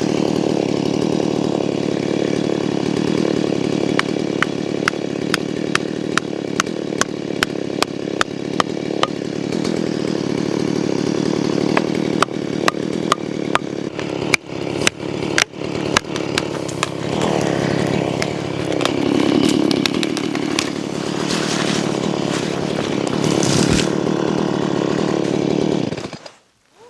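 Chainsaw running steadily while cutting down a tree, with a series of sharp clicks through the middle of the cut. The saw cuts off suddenly near the end.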